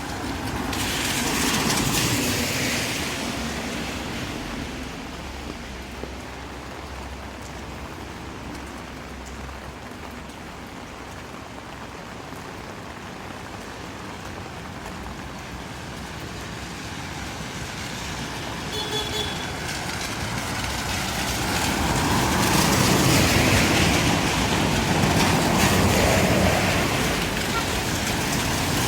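Vehicles passing on a wet street, tyre hiss swelling and fading, once about two seconds in and again, louder and longer, from about 22 to 27 seconds. A short steady tone sounds briefly about 19 seconds in.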